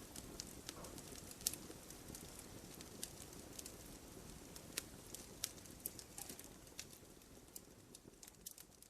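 Wood fire burning: irregular sharp crackles and pops from the burning logs over a soft, steady low rumble of the flames.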